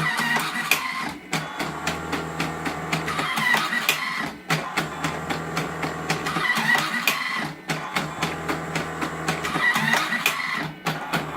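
Electric automatic cigarette-making machine running, its motor whirring and its mechanism clicking in repeating cycles about three seconds apart, each cycle ending in a brief pause. Each cycle fills one cigarette tube, about twenty a minute.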